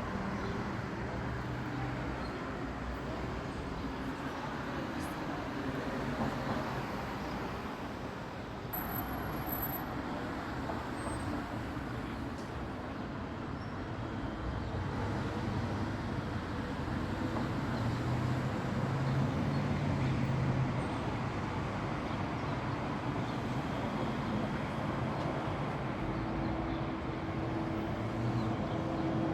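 Steady airport background noise: a continuous rumble of engines and machinery with low humming tones that shift now and then, swelling a little around the middle.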